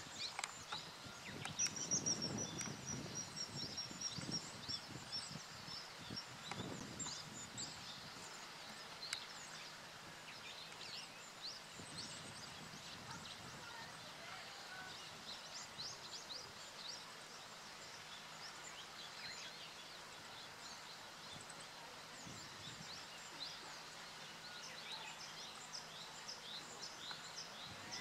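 Small wild birds chirping and calling in many short, high notes, with a longer high, slightly falling trill about two seconds in, over outdoor background noise.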